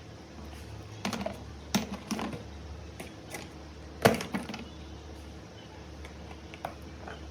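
Irregular light clicks and taps of small hard objects being handled, about ten in all, the sharpest about four seconds in, over a steady low hum.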